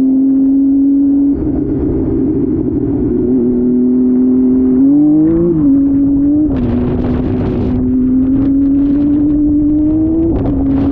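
Motorcycle engine held at high, steady revs, its pitch rising and falling slightly as the throttle is worked, with a brief rise and drop about five seconds in and a slow climb near the end. A burst of hiss joins it about seven seconds in.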